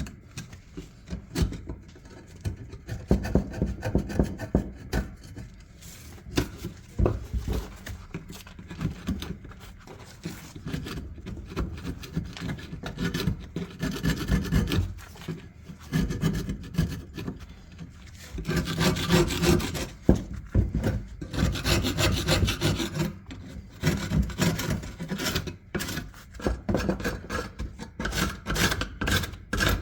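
Flat-blade screwdriver scraping and chipping rust scale off an old iron ice claw at the handle and pivot, in irregular scratching strokes. The strokes grow denser and louder in the second half.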